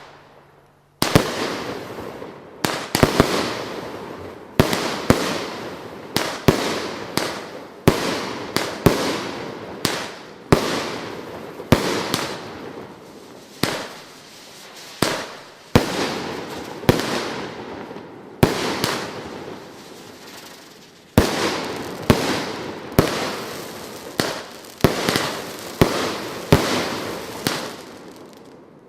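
Multi-shot consumer firework cake firing shot after shot, with a sharp bang about every second, each trailing off into a fading hiss.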